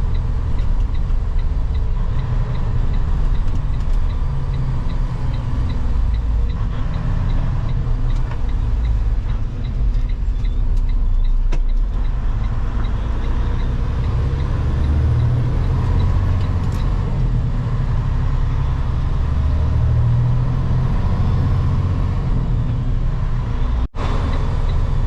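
Diesel engine of a semi tractor pulling a loaded dry bulk tanker, a steady low rumble with road noise heard inside the cab while driving. A light, regular ticking runs through the first several seconds, and the sound cuts out for an instant near the end.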